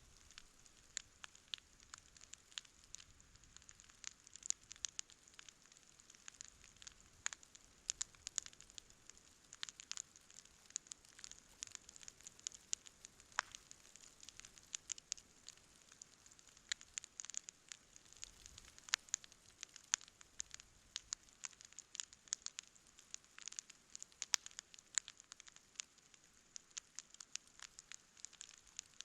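Wood campfire crackling: a dense, irregular run of small sharp snaps, with a few louder pops.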